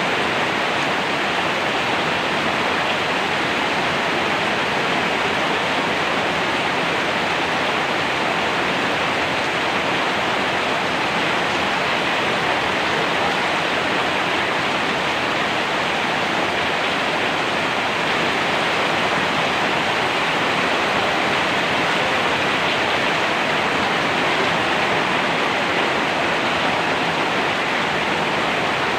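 Steady heavy rain: a dense, even hiss with no single drops standing out and no thunder.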